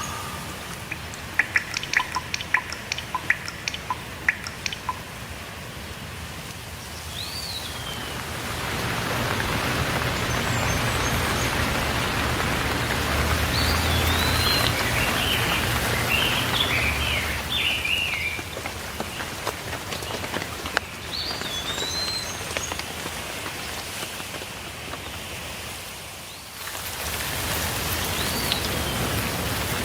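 Steady rain falling, with sharp drips hitting a surface in the first few seconds and the rain growing louder about eight seconds in. Birds call over it: a short rising-and-falling whistle every several seconds, and a burst of chattering notes about halfway through.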